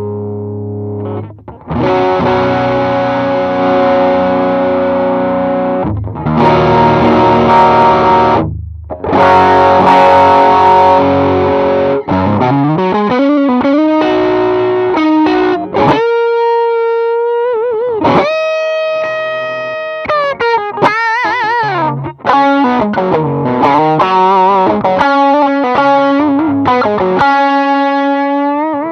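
Electric guitar played through a Zendrive-style overdrive pedal (68 Pedals Inca Kola clone). It opens with three held, distorted chords, then moves into single-note lead lines with bends and wide vibrato.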